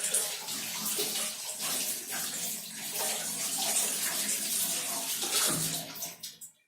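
Kitchen tap running, with water splashing over the dishwasher filter as it is rinsed in the sink. The flow stops about six seconds in.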